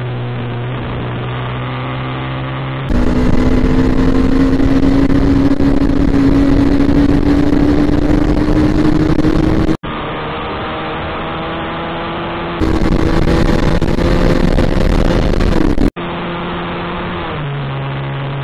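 Bajaj Pulsar NS200's single-cylinder engine and exhaust on the move, in several spliced clips. Steadier cruising stretches alternate with two louder pulls, the first from about three seconds in and the second a little past the middle, where the engine note climbs steadily as the bike accelerates.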